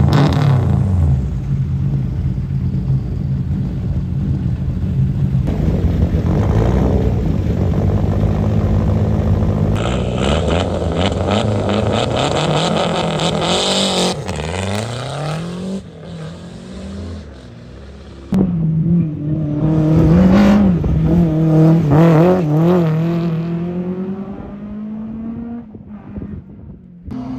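Historic rally cars running hard past the roadside, one after another. Their engines rev high and rise and fall in pitch through gear changes and braking, with a sudden switch to another car about 18 seconds in. The last car fades away near the end.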